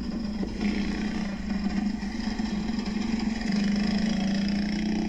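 A steady low mechanical hum from a running motor, holding one pitch, with no fireworks bangs standing out.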